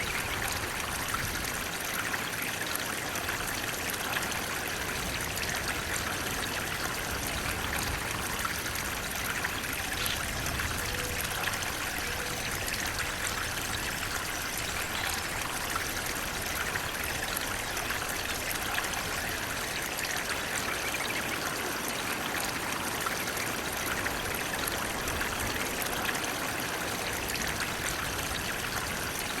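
Water flowing steadily in a stream or small waterfall, an even rushing with trickling over it.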